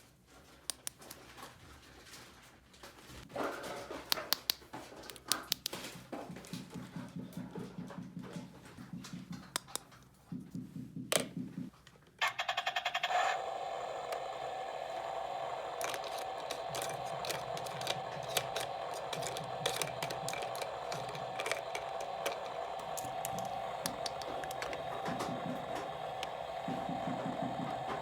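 Clicking and rattling of small plastic toy parts being handled; about twelve seconds in, a small motor switches on and runs with a steady hum, light rattling over it.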